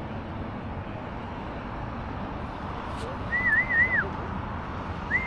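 A high whistled phrase of three quick up-and-down notes about three seconds in, starting again near the end, over a steady rushing background noise.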